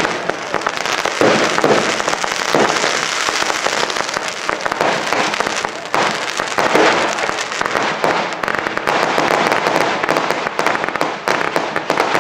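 Fireworks display in a dense, continuous barrage: rapid crackling and popping bangs with no break.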